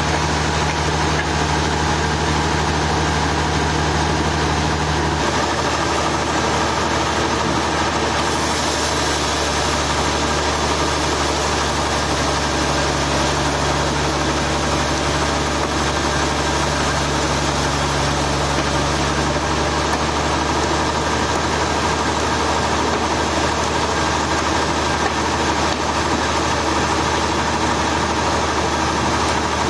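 Sawmill engine running steadily under a dense mechanical noise. Its low hum changes pitch about five seconds in.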